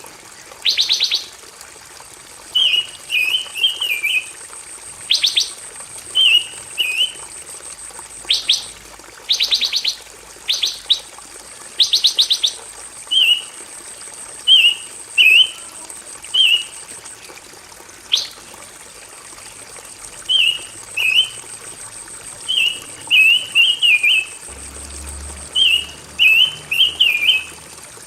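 Pancawarna songbird singing a mastering song: short stuttering chirp phrases repeated about once a second, interspersed in the first two-thirds with sharp rattling bursts, over a steady high-pitched hiss.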